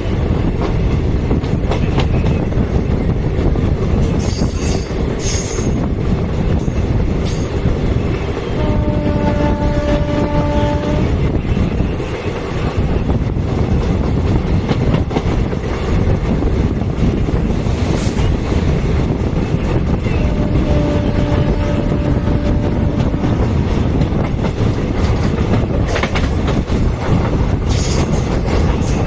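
Express train running through the station, its wheels clattering over the rails in a loud, continuous rumble with brief high squeals now and then. The train horn sounds for about two seconds around nine seconds in, and again more faintly around twenty seconds in.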